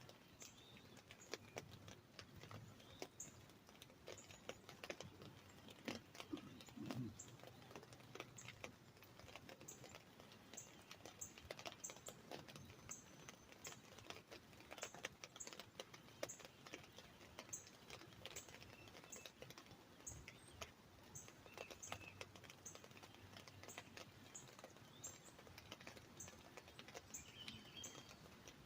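Scattered raindrops tapping irregularly on an umbrella, faint, with occasional bird chirps and, from about halfway, a high ticking call repeating roughly twice a second.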